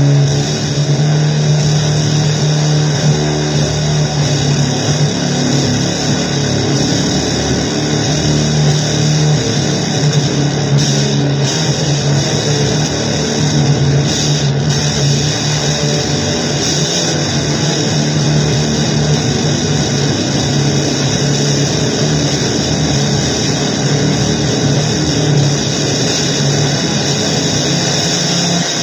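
Harsh noise music: a loud, dense wall of distorted noise over a steady low drone, unchanging throughout.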